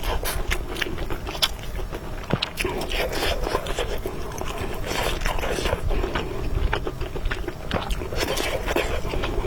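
Close-miked eating: chewing mouthfuls of noodles and meat, with many short wet clicks and smacks.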